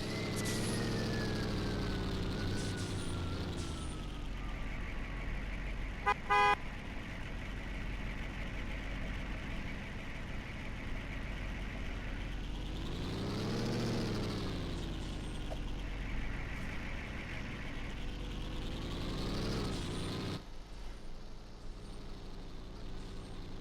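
Truck engines revving up and dropping back several times, with a short horn honk about six seconds in.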